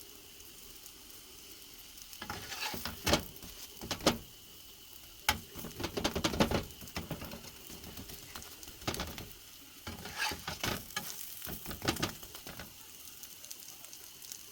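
Potato-stuffed roti cooking on a hot griddle, sizzling softly. From about two seconds in come repeated bursts of scraping and tapping as the roti is worked and turned with a utensil.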